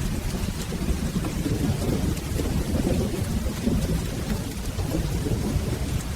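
Steady rain with a continuous low rolling rumble of thunder underneath.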